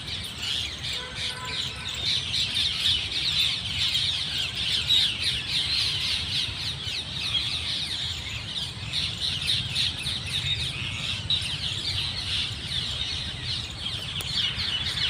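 Many birds calling at once in a dense, continuous chorus of short, high chirps, with a steady low rumble underneath.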